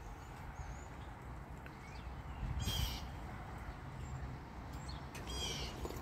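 Two faint, harsh bird calls, the first about two and a half seconds in and the second about five seconds in, over a low steady outdoor rumble.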